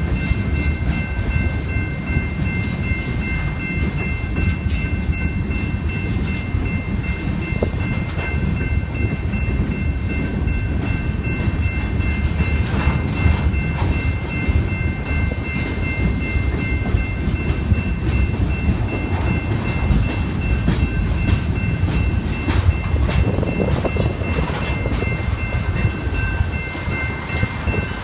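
Freight train cars rolling past with a steady low rumble and the clicking of wheels over rail joints. A steady high ringing tone runs over it.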